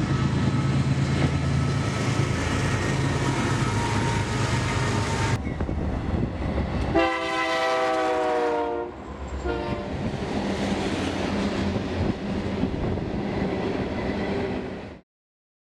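Diesel freight locomotives passing with a steady engine drone and rail noise; the engine drone stops abruptly about five seconds in. About seven seconds in a locomotive air horn sounds one long blast, followed by a short toot, while rail noise runs on until the sound cuts off suddenly near the end.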